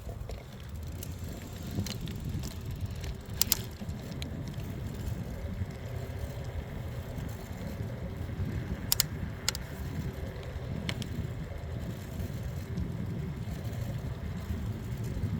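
Bicycle ride with steady low wind rumble and rolling noise, broken by sharp double clicks about three and a half seconds in and again about nine seconds in.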